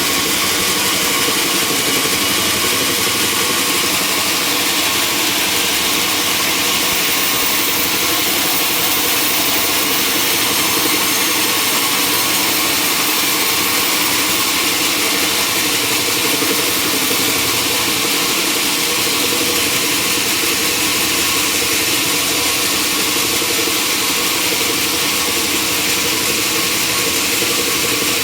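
Sawmill machinery running steadily: a constant engine drone with a dense high hiss over it, holding the same pitch and level.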